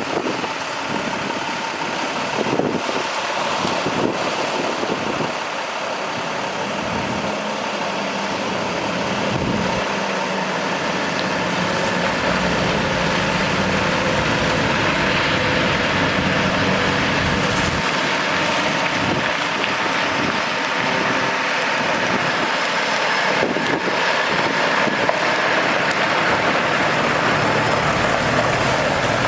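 Freightliner 114SD water truck with its Cummins ISL diesel running, under a steady rushing noise that grows slightly louder about a third of the way in.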